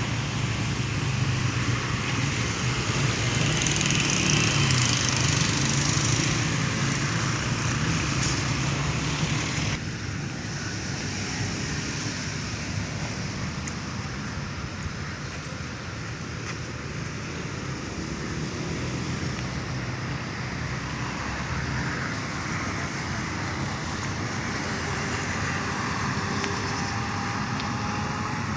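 Outdoor street ambience: a steady wash of road traffic noise. It changes abruptly about ten seconds in, becoming a little quieter.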